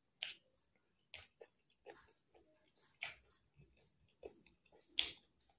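Close-miked chewing with wet mouth smacks and lip clicks, heard as irregular sharp clicks about once a second, the loudest about five seconds in.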